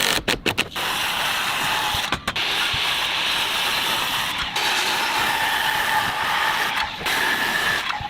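A power tool running steadily on wood with a faint whine, dipping briefly about five times.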